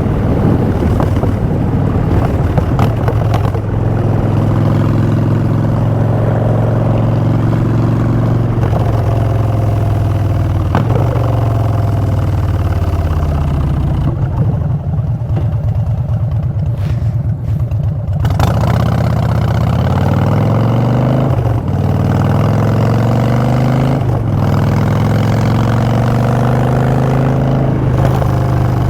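Harley-Davidson Street Bob V-twin through Vance & Hines Short Shots exhaust while riding: a steady cruise, the engine dropping in pitch about halfway as the bike slows, then rising again in several sweeps as it accelerates through the gears, with a brief dip at each shift.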